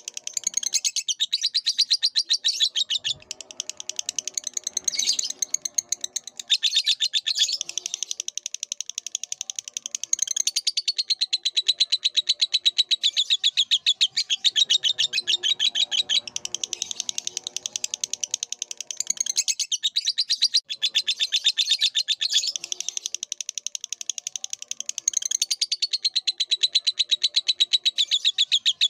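Lovebird singing a long, rapid, high-pitched chattering song of fast repeated chirps, broken by a few brief pauses.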